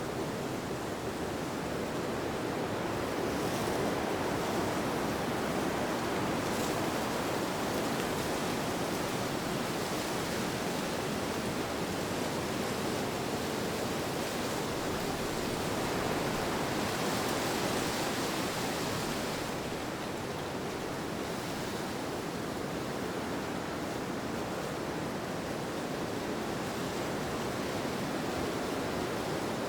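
Steady wind, an even rushing noise, swelling brighter for a couple of seconds a little past the middle.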